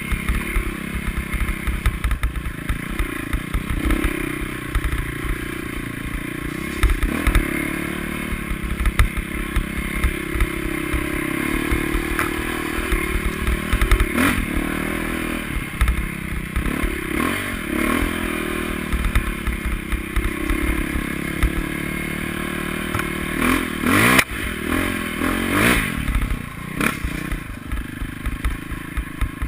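Motocross motorcycle engines revving, their pitch rising and falling again and again, with a sharp rise and fall about 24 seconds in. There are many low thumps and clattering throughout.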